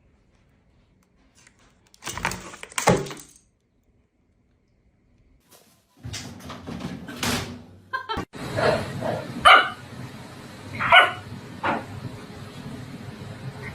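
Dog barking: a handful of short, sharp barks in the second half, with a brief noise a couple of seconds in.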